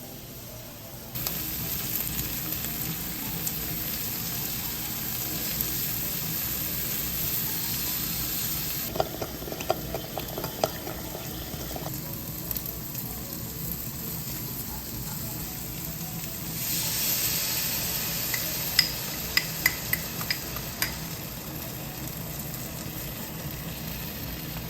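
Food sizzling in a frying pan. The sizzle starts suddenly about a second in, as food goes into the hot oil, and grows louder and brighter later on. Scattered clicks come as the food is stirred and turned.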